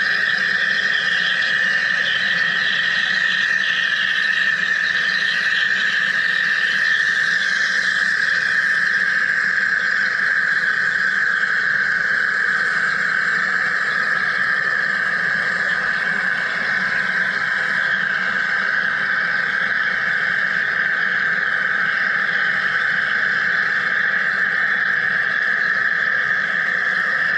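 Wire EDM (electrical discharge machine) running while cutting: a continuous, steady high-pitched sizzling hiss with no breaks.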